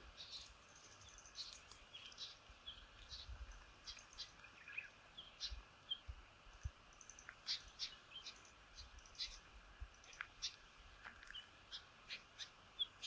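Faint birds chirping in the bush: short, scattered chirps and calls, some sliding in pitch, over a faint low rumble.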